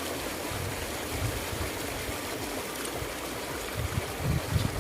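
Steady rush of flowing river water, with a few low bumps near the end.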